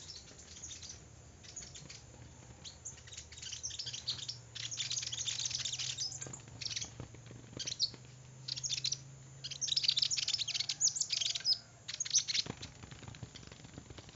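Small bird twittering in quick runs of high, thin chirps, each run lasting a second or two with short pauses between.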